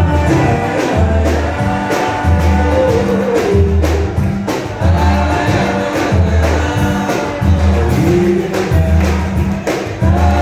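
Live band music with a singer, amplified through a concert PA system, carried by a heavy bass line that pulses about once a second.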